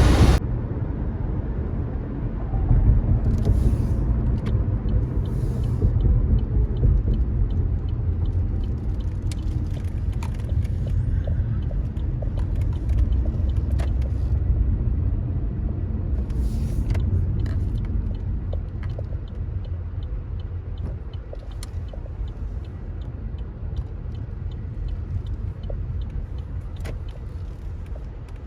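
Car cabin noise while driving: a steady low road-and-engine rumble with faint scattered clicks, gradually quietening over the last several seconds.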